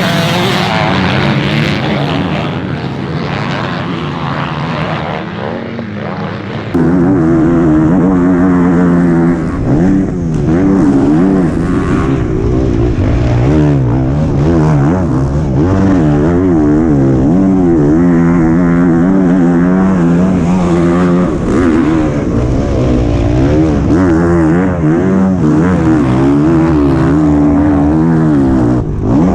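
Motocross bike engine racing hard, its pitch rising and falling over and over as the throttle is worked and gears change. It jumps louder about seven seconds in.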